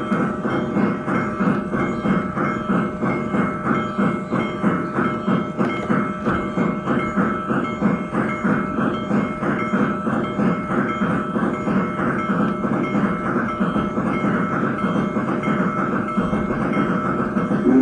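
Steam locomotive running at speed: a fast, even chuffing clatter with a thin steady whine over it.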